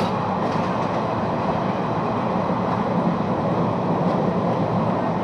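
Train running along the track: a steady rumble with a few faint clicks.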